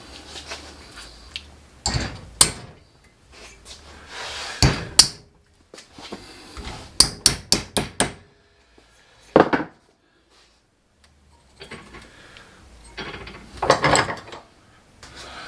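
Hammer blows on a small metal bracket being bent: single sharp strikes, then a quick run of about five strikes a little past the middle, with clattering handling noise near the end.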